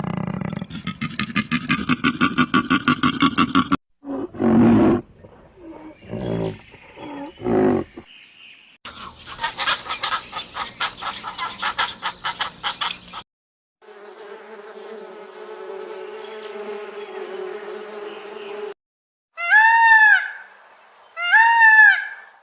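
A run of different animal calls, cut one after another: a fast rattling pulse, a few low rough roar-like calls, another fast pulsing call, a steady buzzing drone, then two short high calls that rise and fall.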